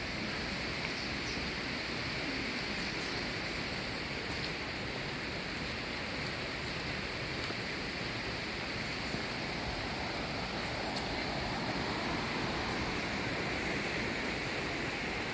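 Steady rush of falling water from a waterfall, an even unbroken roar.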